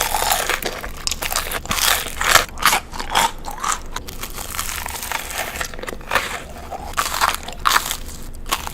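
Close-miked crunchy eating: bites and chewing of crisp food, an irregular run of loud crunches.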